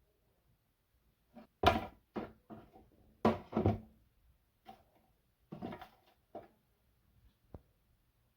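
A string of irregular knocks and short clatters from things being handled, about a dozen over six seconds, loudest around two and three and a half seconds in.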